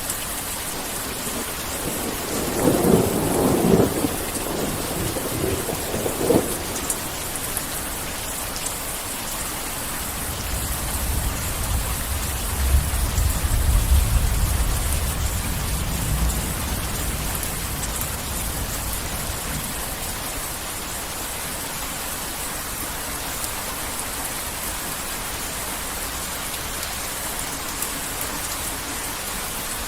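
Heavy rain falling steadily through a thunderstorm. About three seconds in, thunder cracks sharply, with a second crack near six seconds. A long, deep rumble then swells from about ten seconds in and fades away by about eighteen seconds.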